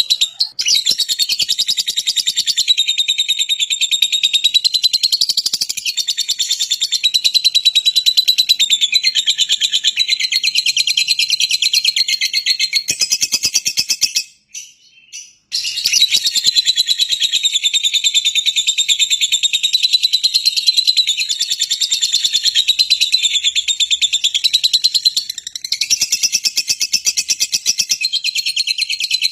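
Small songbird singing a long, fast, high-pitched trilling song of rapidly repeated notes, with a short break about halfway through.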